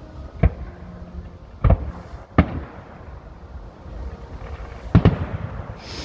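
Fireworks exploding: a sharp bang about half a second in, two more a little under two and two and a half seconds in, and a quick double bang near the end.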